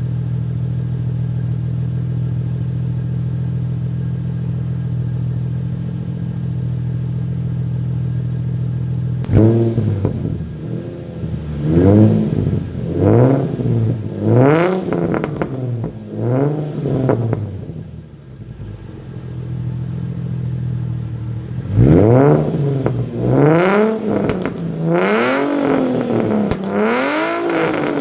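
Nissan 350Z Nismo's V6 running through a Tomei Expreme Ti titanium exhaust: a steady idle, then about five quick throttle blips that rise and fall in pitch. It settles back to idle briefly, then is blipped about six more times near the end.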